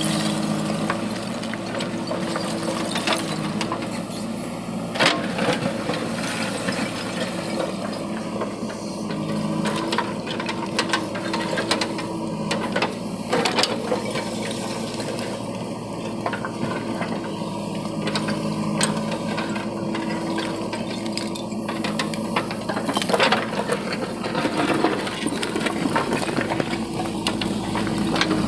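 A diesel engine runs steadily under many irregular clinks and knocks of bricks striking one another as they are loaded into a tractor trolley. A few louder knocks stand out, about five seconds in, midway and a few seconds before the end.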